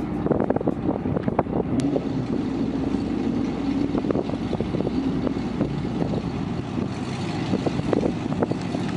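A vehicle engine running steadily, with many small irregular rattles and knocks over it.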